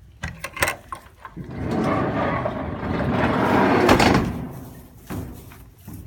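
A sliding barn door rolled along its track for about three seconds, ending with a sharp bang near the end of its travel, after a few light clicks.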